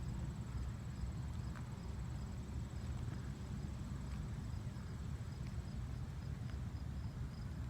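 Insects chirping steadily: a short high chirp repeating about twice a second over a constant high trill, with a low rumble underneath.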